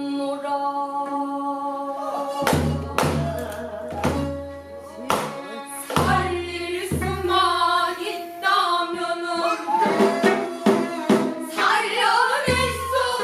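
Newly composed pansori: singing voices over a Korean traditional ensemble of held wind and bowed-string tones. A buk barrel drum strikes deep beats now and then, about six in all, with two close together near the end.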